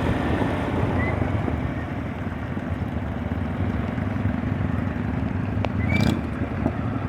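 A vehicle engine running steadily with a low rumble, with a brief sharp sound about six seconds in.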